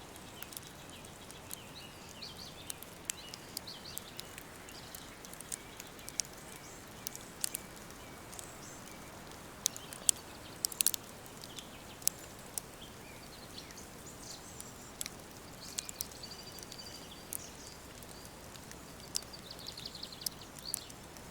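Woodland ambience: birds chirping and calling faintly over a steady soft hiss of breeze, with scattered sharp crackles and snaps throughout, a quick cluster of them about ten seconds in.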